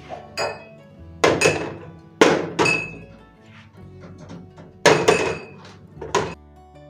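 Hard containers being set down or handled one after another: about six sharp knocks and clinks, mostly in pairs, each with a short ring. Soft background music plays underneath.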